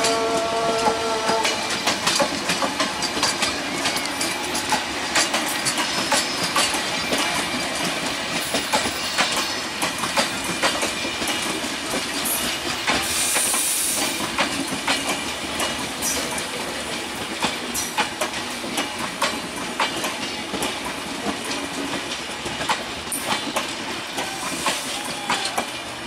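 Bangladesh Railway intercity passenger coaches rolling past on broad-gauge track, their wheels clicking fast and steadily over the rail joints and growing fainter as the train pulls away. A steady tone dies away about a second in, and a short hiss comes about 13 seconds in.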